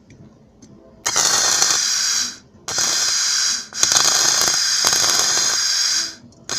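Electric arc welding along a break in a metal scooter frame: the arc gives a steady crackling hiss in three runs, the first two about a second each and the last about two seconds, with short pauses between them and the first starting about a second in.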